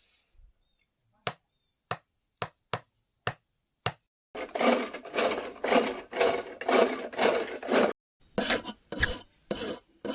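Metalwork on a machete blade: a run of light sharp taps, then a file rasping across the steel in even strokes about two a second, then a few loud ringing hammer strikes on the metal near the end.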